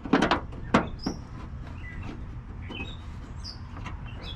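Sharp knocks and clatter from hand work on a car's plastic running light housing, two or three strong hits in the first second, then quieter scraping and faint short high chirps.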